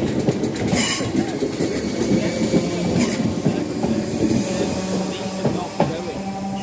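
A passenger train moving through the station, with the rumble of its wheels on the track and brief wheel squeals, the first about a second in.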